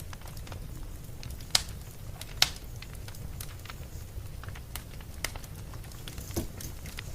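Wood fire crackling: scattered small crackles with two sharp, louder pops about one and a half and two and a half seconds in, over a low steady rumble.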